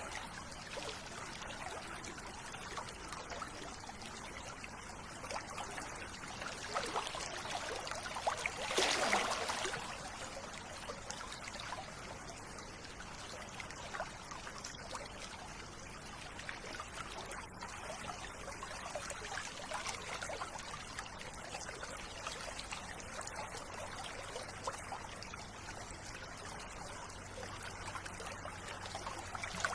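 River water trickling and flowing steadily, with a brief louder surge about nine seconds in.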